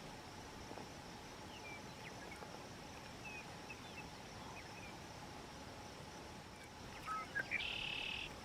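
Faint scattered bird chirps over a steady insect hum, with a louder buzzing sound lasting under a second near the end.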